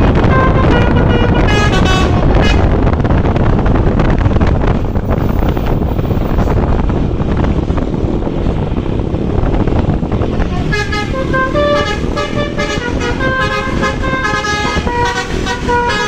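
An Indonesian bus's basuri musical horn playing a tune of short stepped notes over loud road and wind noise. The tune sounds for the first couple of seconds, gives way to road noise, and starts again about ten seconds in.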